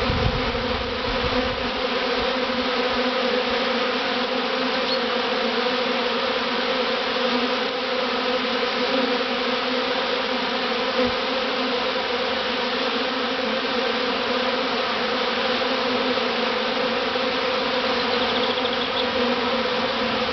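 A large honeybee swarm buzzing close up, thousands of bees flying around a hive box as they move into it. A steady, even hum with no breaks.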